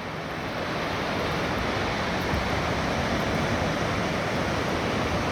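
Pacific Ocean surf washing onto the beach, a dense steady rush of breaking waves that swells a little over the first couple of seconds.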